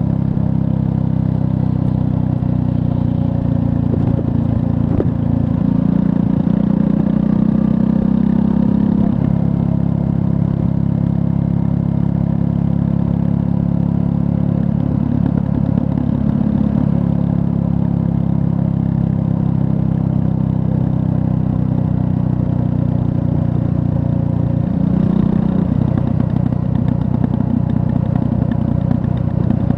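Triumph Scrambler 400 X's 398 cc liquid-cooled single-cylinder engine running steadily under way, its note shifting in pitch a few times: about five seconds in, around fifteen seconds, and about twenty-five seconds in.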